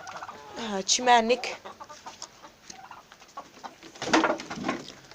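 Chickens clucking softly around a feeding keeper, with a brief rustling burst about four seconds in.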